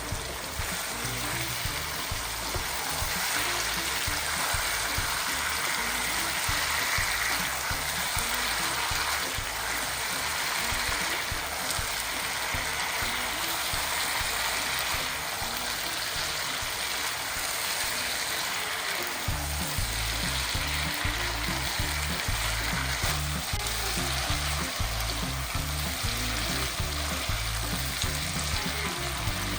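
Chicken pieces frying on high heat in a pan of onions and spices: a steady sizzle. Background music plays alongside, its bass getting stronger about two-thirds of the way through.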